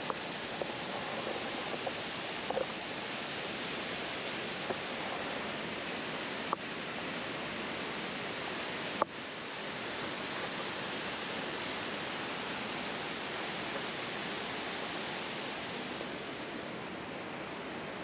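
Steady rushing of river water, an even hiss, broken by a couple of short clicks around the middle.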